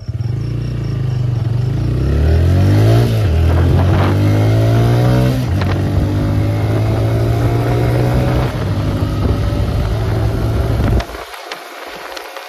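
TVS Raider 125's single-cylinder engine at full throttle, accelerating hard from a standstill. Its pitch climbs and falls back with each upshift, about three times. About a second before the end, it suddenly turns much quieter, leaving mostly a hiss of wind.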